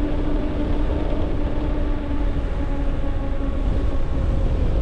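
Wind rumbling on the microphone of a moving e-bike, with the bike's electric motor giving a steady whine.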